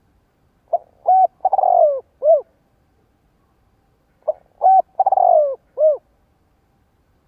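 Spotted dove cooing, two phrases a few seconds apart. Each phrase is two short notes, a long falling coo, then one short closing note.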